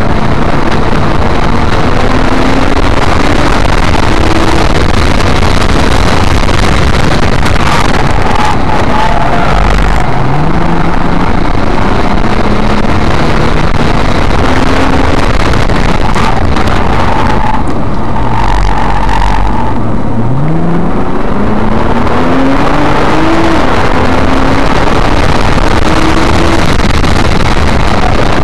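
Nissan GT-R's twin-turbo V6 heard from inside the cabin at track pace, over constant loud road and tyre noise. The engine pitch climbs hard twice, about a third and two-thirds of the way through, stepping down at upshifts before rising again, with a few low thuds.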